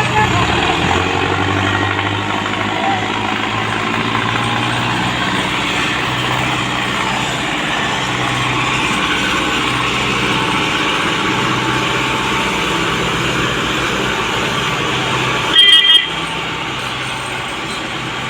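Tractor diesel engine running steadily while hauling a heavy load, with a short vehicle horn blast near the end.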